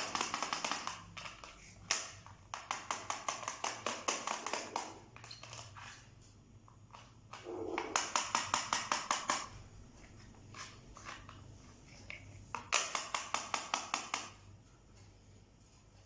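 Parrot giving four runs of rapid, evenly repeated clicking notes, about eight a second, each run a second or two long.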